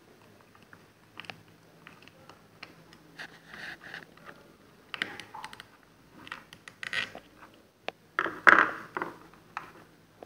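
Hands working on small parts and tools at a workbench: scattered clicks and short scraping, rustling bursts, the loudest a little over eight seconds in, over a faint steady hum.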